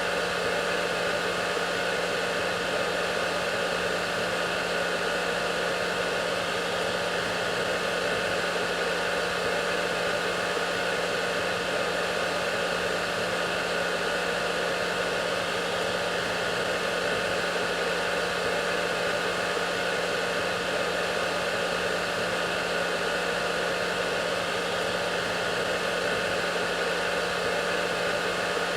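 Hair dryer running continuously: a steady rush of blown air with a constant motor hum and a few fixed whining tones above it.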